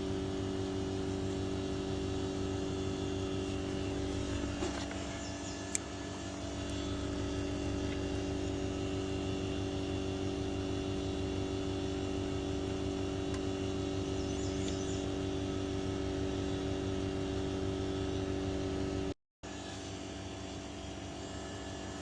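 Heat pump outdoor unit running in cooling mode: a steady hum from the compressor and condenser fan with a few constant low tones. There is a small click about six seconds in.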